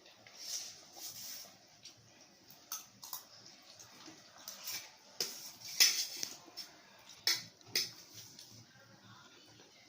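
Eating noises: scattered sharp clicks and clinks of cutlery against a plate, with short hissy mouth sounds, while Maggi noodles and boiled eggs are eaten.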